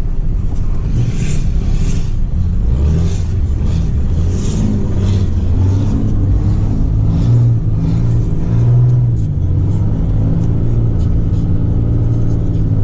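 Straight-piped Cummins diesel engine running loud under throttle, revving up and down repeatedly. Short bursts of hiss sit over it in the first few seconds.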